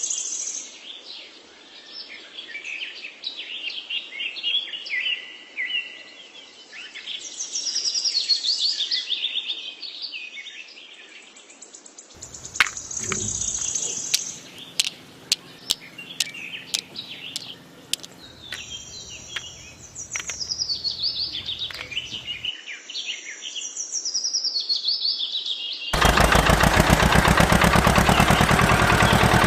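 Birds chirping and calling in quick, varied phrases, with a few sharp clicks around the middle. A few seconds before the end, a loud, fast-pulsing engine-like rattle cuts in suddenly and holds steady.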